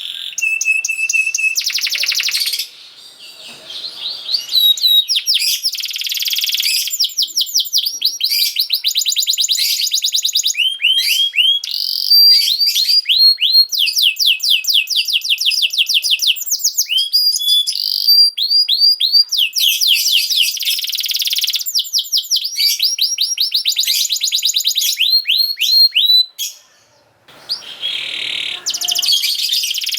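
Domestic canary singing a long, loud song of fast trills and rolls, each phrase a rapid run of repeated notes that shifts to a new pattern every second or two, with a short lull a few seconds in and again near the end.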